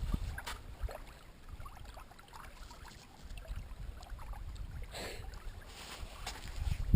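Water lapping at a shoreline with wind rumbling on the microphone, a few faint clicks and a short rush of noise about five seconds in.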